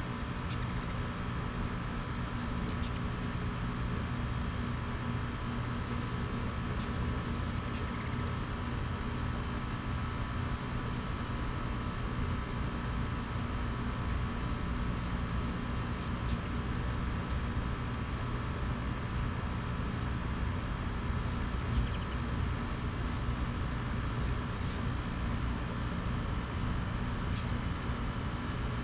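Hummingbirds making short, very high chip calls, scattered irregularly throughout, over a steady low mechanical hum.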